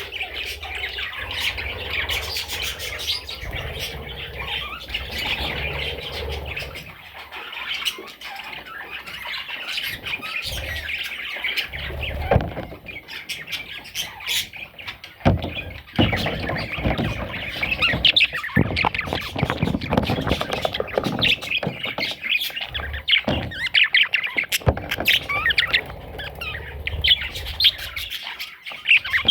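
Budgerigar chattering and squawking: a continuous warble of quick chirps, with sharp clicks scattered through it, busier in the second half.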